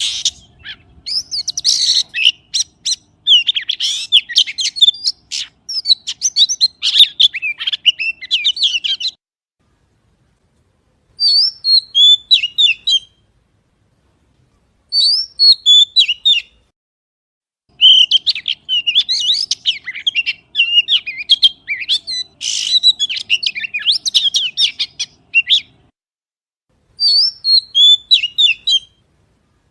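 Magpie calling in bursts of rapid, high chirps and chatter, with brief silences of a second or two between the bursts.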